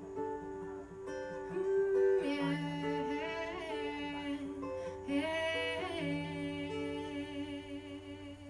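Acoustic guitar played as song accompaniment, with a wordless sung melody rising over it twice, held with vibrato.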